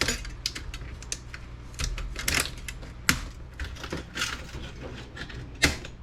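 Irregular clicks and taps of an old Dell laptop's plastic and metal parts being handled and pried apart, with a few sharper knocks, over a low steady hum.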